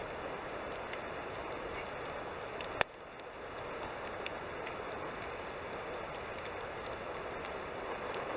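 Wood campfire crackling: small scattered pops over a steady hiss, with one sharp, loud pop about three seconds in.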